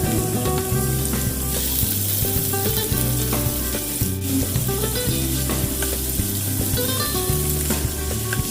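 Food sizzling and frying in a hot pan, a steady crackling hiss, with background music and its bass line running underneath.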